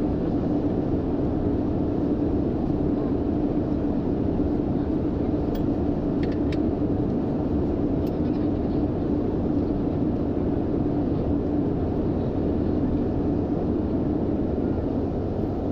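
Steady airliner cabin noise in flight: the drone of the engines and airflow with a constant low hum, and a few faint clicks about six and eight seconds in.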